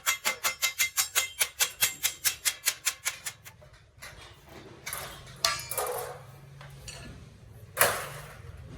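Rapid hand-hammer taps on metal, about seven a second, slowing and stopping about three and a half seconds in. After that come scraping and handling noises and one sharp clank near the end.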